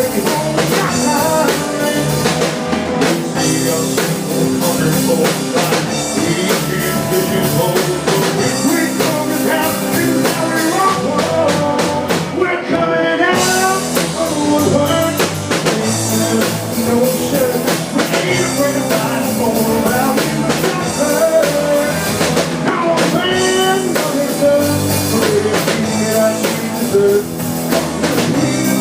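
A rock song playing with a full drum kit keeping a steady beat, band instruments and singing.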